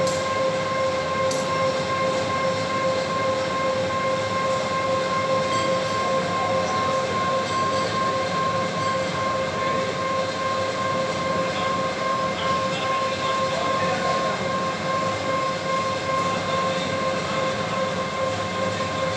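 Steady electrical hum at one fixed, fairly high pitch with overtones from a hardening furnace's electric control panel, over continuous machinery noise.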